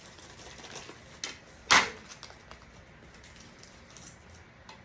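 Serving utensil knocking against a plate as potatoes are served: a light click, then one sharp clack about a second and a half in, with faint small ticks around it.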